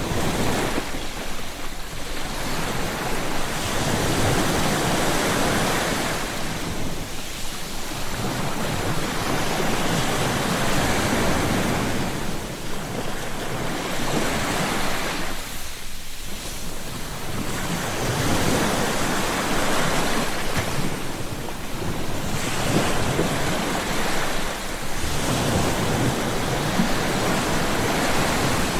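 Ocean surf: waves breaking and washing ashore in a steady rush that swells and eases every few seconds.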